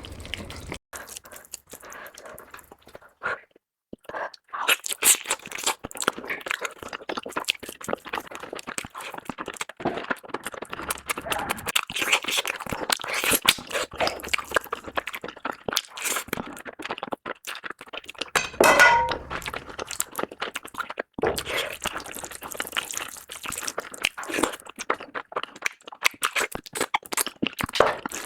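Close-miked eating of curry with puri and rice: wet chewing, smacking and crunching as dense, irregular clicks, with a couple of short pauses.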